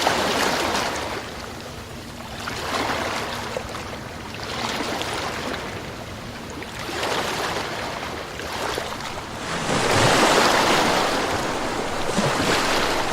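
Sea waves surging in and washing back in repeated swells every two to three seconds, the biggest about ten seconds in.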